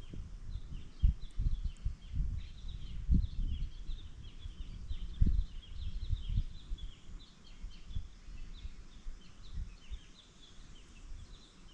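Small birds chirping rapidly and continuously, a dense chatter of short high calls. Irregular low thumps run underneath and are the loudest sounds.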